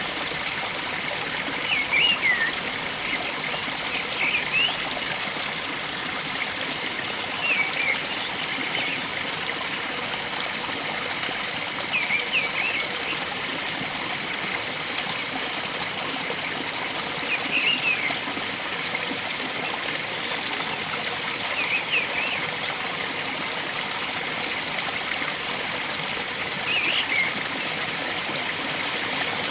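Steady rush of flowing water, with a bird giving short calls every few seconds.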